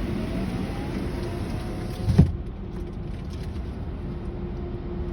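Automatic car wash machinery running, a steady hum and hiss heard through an open car door. About two seconds in there is a single loud thump, after which the high hiss drops away and the hum goes on more quietly.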